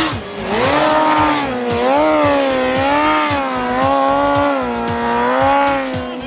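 Hayabusa snow bike's inline-four engine running at high revs, its pitch rising and falling with the throttle about once a second. A music track with a thudding beat plays underneath.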